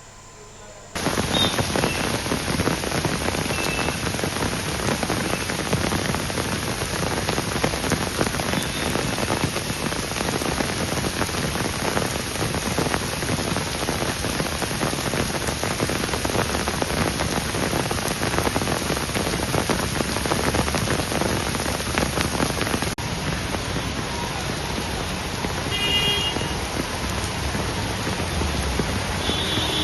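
Heavy rain falling on a flooded road, a steady hiss that starts about a second in.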